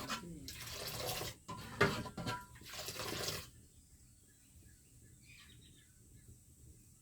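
Water pouring and splashing in several bursts, which stop about three and a half seconds in. Faint bird chirps follow.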